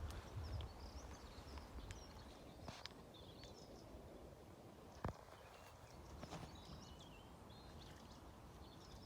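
Faint birdsong, short chirps and twitters, over a low rumble, with a single sharp click about five seconds in.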